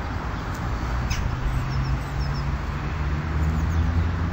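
Motorcycle engine running steadily at low revs, a low even hum, with a few faint bird chirps about a second in and again around two seconds.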